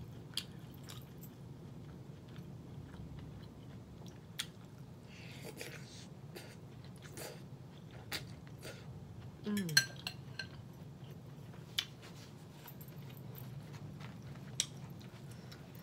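Close-miked chewing and wet mouth sounds of a person eating sauteed cabbage. Sharp clicks now and then come from a fork against a glass bowl. The loudest moment, a little past halfway, is a short falling sound followed by a click.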